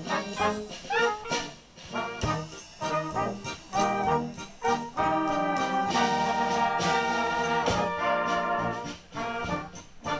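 Brass band music with a regular beat, several horns playing together and holding one long chord in the middle.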